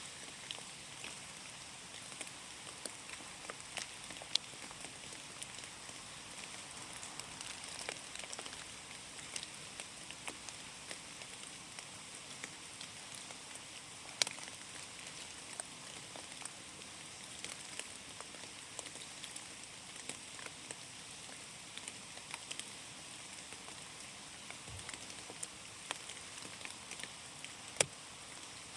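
Rain falling in a forest: a steady patter with many separate drops ticking irregularly. A few louder single drips stand out, about four seconds in, midway and near the end.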